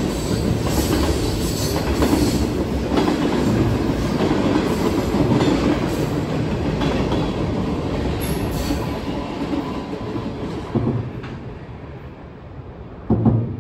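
Freight train cars rolling past, their steel wheels clattering rhythmically over the rail joints. The sound fades over the last few seconds as the rear of the train moves away, with two sharp knocks near the end.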